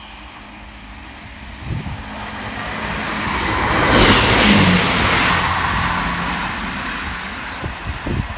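Passenger train passing a station platform at speed: its rumble and rush of air build up, peak as it goes by about four seconds in, then fade as it runs away.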